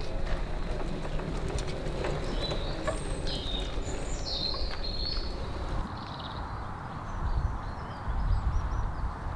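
Small birds chirping in short high calls over a steady outdoor background; the background drops suddenly about six seconds in, leaving fainter chirps and a low rumble.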